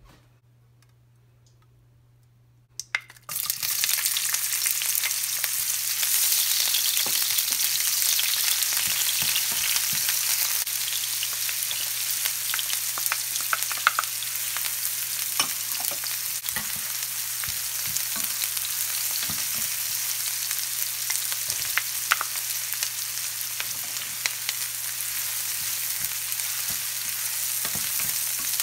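Chopped red onion and garlic sizzling in hot oil in a frying pan, stirred with a wooden spoon that clicks and scrapes against the pan. The sizzle starts abruptly about three seconds in.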